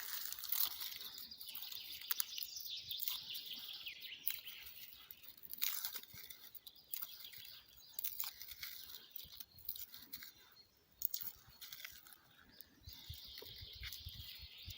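Loose birch bark being pulled and torn off by hand, a run of irregular crackles and tearing sounds, with birds chirping in the background.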